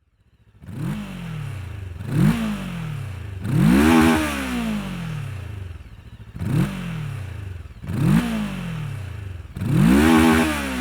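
2024 Rieju Aventura 500's parallel-twin engine revved through a Dominator aftermarket exhaust: two short blips and a longer, higher rev, then the same again, the pitch rising quickly and falling back each time.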